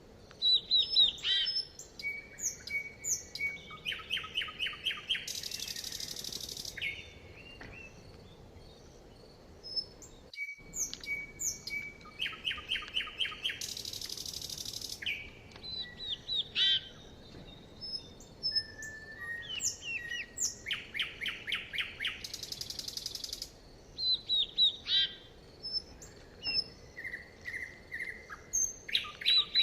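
Songbirds singing: varied chirps, whistled notes and quick trills, with a high buzzy phrase that comes back about every eight seconds. There is a brief dropout about ten seconds in.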